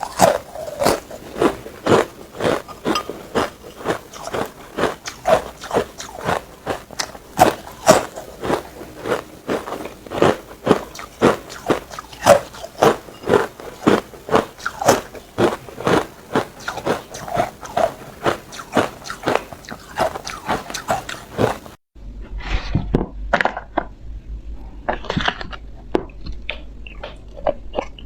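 Ice being bitten and chewed close to the microphone, with rapid, regular crunches about two or three a second. Near the end there is a brief break, then sparser crunches over a low hum.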